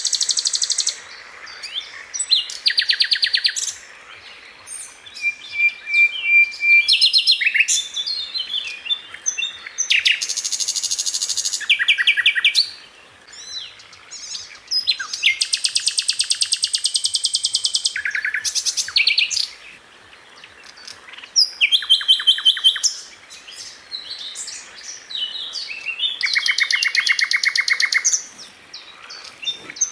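A Sikatan Londo flycatcher singing. It gives bursts of very fast, rapid-fire repeated notes, each burst a second or two long, broken by short pauses with scattered single chirps and a brief whistle. This is the fast, tightly packed 'shot' song used to tutor other songbirds.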